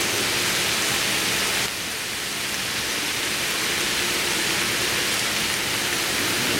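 Diced vegetables and leek sizzling steadily in oil in a cast-iron Dutch oven over a gas burner as they sweat, dipping slightly in level just under two seconds in.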